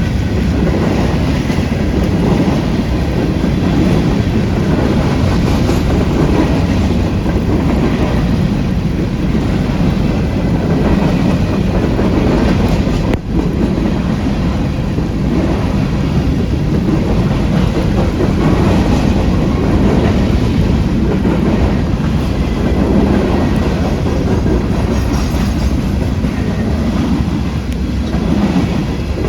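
Freight train rolling past close by: a steady loud rumble of railcars, with wheels clicking over the rail joints.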